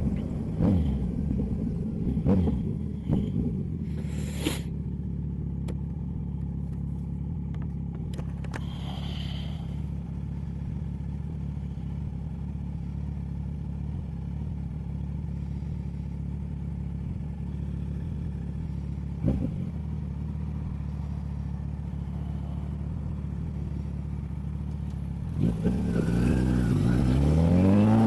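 Motorcycle engine with an aftermarket sport exhaust running steadily at low revs, with a few short knocks in the first seconds. About 25 seconds in, the revs climb quickly as the bike accelerates.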